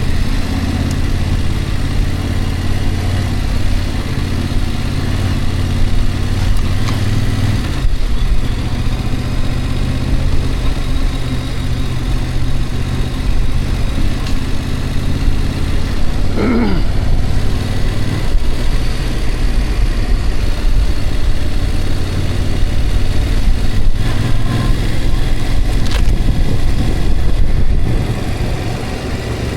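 A vehicle driving on the road: a steady low engine drone under loud road and wind noise, with a brief wavering tone a little past halfway.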